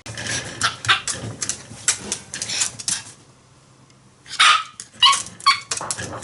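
Dog barking and yipping in short, sharp calls, with a quieter pause about three seconds in before a few louder barks.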